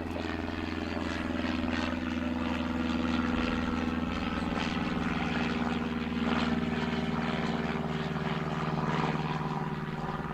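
Aircraft engines running with a steady drone whose pitch slowly falls.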